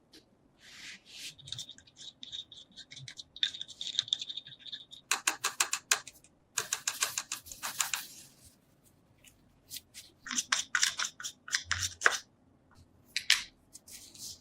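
Quick runs of scraping and clicking strokes, like a hand tool working at a hard, crusted metal surface, with pauses between the runs. A thin high squeak runs for a few seconds near the start.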